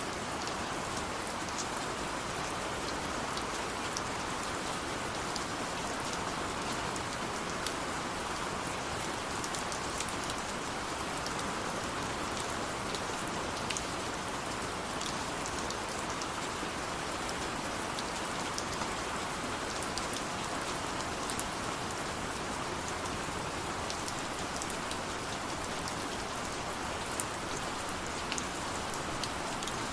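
Steady rain, falling evenly with many separate drops ticking sharply on a surface.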